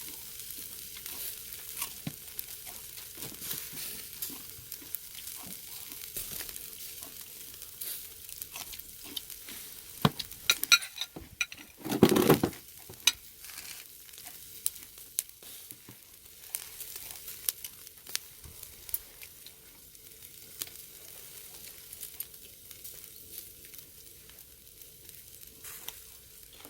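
Pork sizzling and crackling on a charcoal brazier grill, a steady hiss with many small pops. About ten to twelve seconds in there is a louder flurry of clicks and a short thud.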